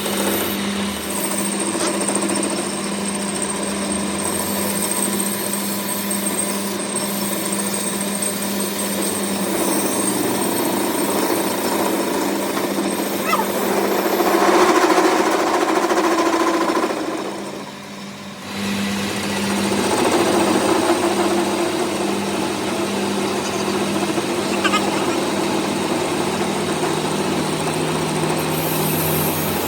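A machine running with a constant hum and steady noise, louder for a couple of seconds past the middle, then dropping off briefly before starting up again.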